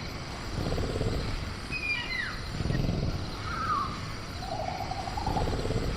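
Sound-effect jungle ambience for a caged velociraptor: two low growls, with a few short falling chirps about two seconds in and a longer creature call in the second half, over a steady background hiss of crickets.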